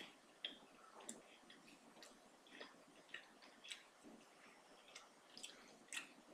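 Faint, irregular wet clicks and smacks of a person chewing food with the mouth closed, about a dozen over a few seconds.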